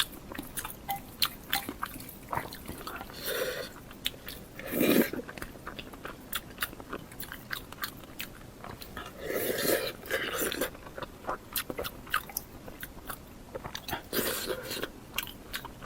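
Close-miked eating sounds: a person chewing and biting food, with a steady run of small wet mouth clicks and several louder swells, the biggest about five seconds in and around ten seconds.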